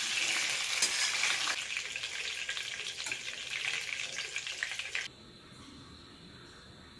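Chicken hearts deep-frying in hot oil in a wok, sizzling, with a few light clicks as a wire-mesh strainer scoops them out. About five seconds in the sizzling cuts off, leaving only a faint hiss.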